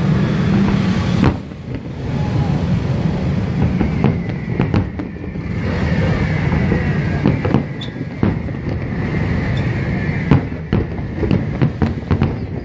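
Aerial fireworks shells bursting, heard from afar: a steady low rumble of booms laid over with sharp bangs and crackle, the bangs coming thick and fast near the end.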